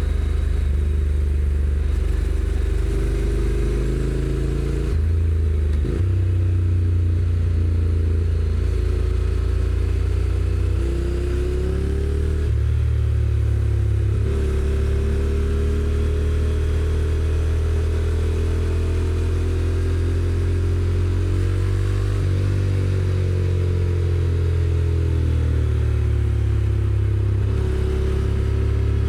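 Honda NC750X parallel-twin engine on its stock exhaust, riding along with the engine note rising and falling with the throttle. The pitch drops or jumps abruptly a few times as the automatic dual-clutch gearbox changes gear.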